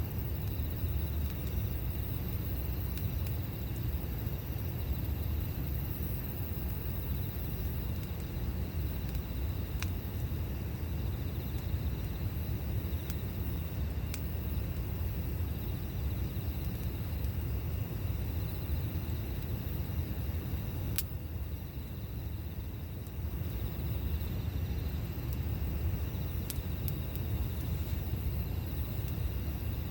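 Campfire burning under a steady low rumble, with a few sharp crackles and pops every several seconds.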